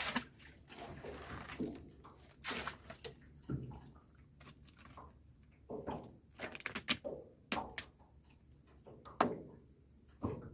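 A fish trap and its catch being handled in a small boat: irregular knocks and clatters, with some dripping and splashing water.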